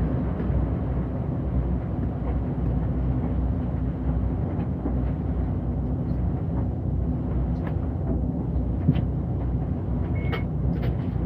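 City bus running along the road, heard from inside: a steady low rumble of engine and road noise with an even hum, and a few faint clicks.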